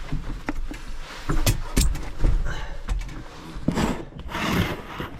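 Knocks, clicks and rustling of objects being handled, with a low rumble underneath and two longer bouts of rustling near the end.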